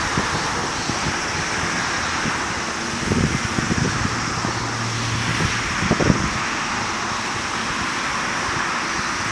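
Steady distant jet engine noise from a Boeing 777-200ER after takeoff, with wind gusting on the microphone in low thumps about three and six seconds in.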